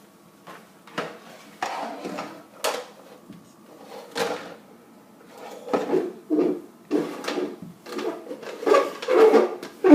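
A toy box being pushed across the floor, making irregular knocks and scrapes that come more often in the second half.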